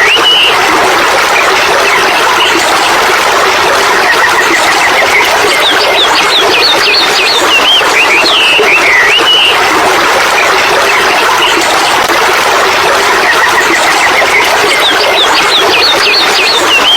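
Birdsong: phrases of quick high chirps that return about every eight seconds, over a constant loud hiss.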